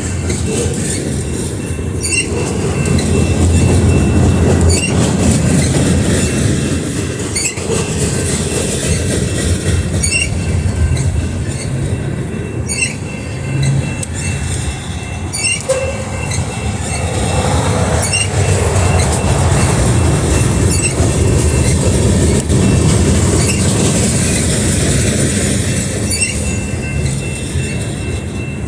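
Freight cars of a heavy loaded pipe train rolling past. Their wheels click over the rail joints in pairs about every two and a half seconds over a steady rumble, with a thin, steady high wheel squeal.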